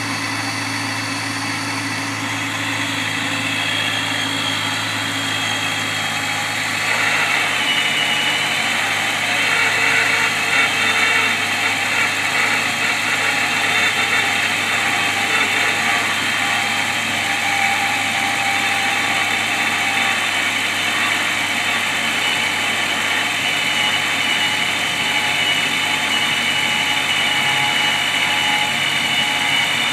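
Comptech-supercharged Honda S2000's four-cylinder engine idling shortly after a cold start, with steady tones and a high whine that grow louder about seven seconds in. The odd lower-pitched noise fades once the car warms up, and the owner takes it for the start of a failing belt tensioner pulley, which later seized.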